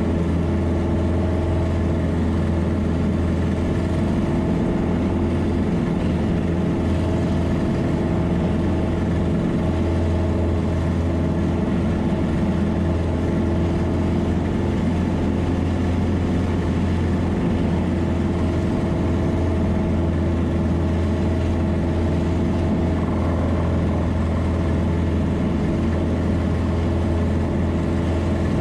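Single-engine Piper Cherokee's piston engine and propeller running steadily at high power during the climb-out after a touch-and-go, heard as a constant low drone inside the cockpit.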